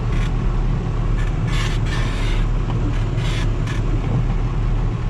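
Farm tractor engine running steadily as it moves slowly in gear, a constant low drone, with a few short hiss-like bursts over it.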